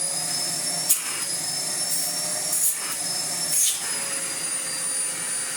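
Miele Blizzard CX1 bagless vacuum cleaner running, its motor giving a steady high whine, with three short knocks about one, two and a half, and three and a half seconds in.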